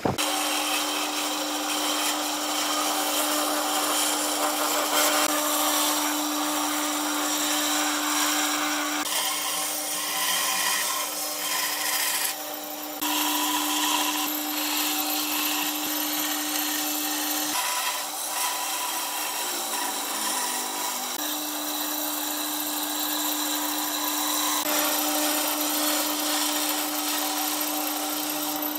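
Woodworking power tool running and working wood: a steady motor hum under a hiss of cutting, changing character a few times, with a short dip about twelve seconds in and a wavering stretch around twenty seconds.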